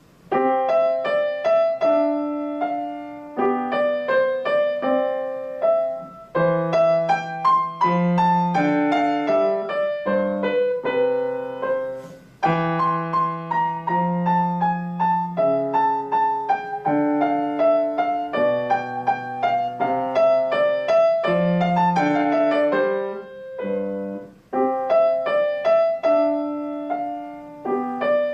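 Solo piano: a child plays a short classical piece, a clear melody over a simple lower accompaniment in even phrases with brief pauses between them. The playing starts just after silence at the very beginning.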